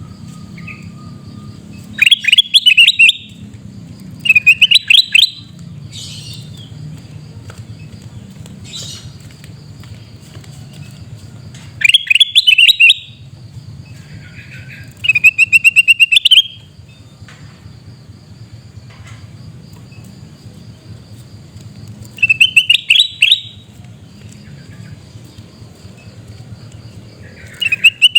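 Kutilang emas bulbul giving loud calls: six bouts of quick repeated rising notes, each about a second long and several seconds apart, over a low steady hum.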